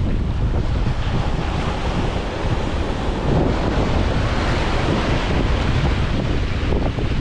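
Ocean surf breaking and washing up the beach, swelling in the middle, with wind buffeting the microphone as a low rumble.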